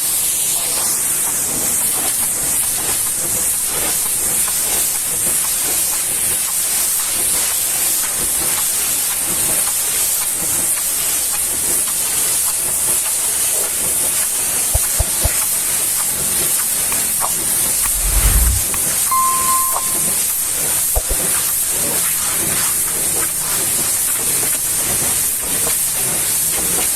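High-pressure washer spray hitting a vehicle: a steady hiss. A few low thumps come in the middle, the loudest about eighteen seconds in, followed by a brief high tone.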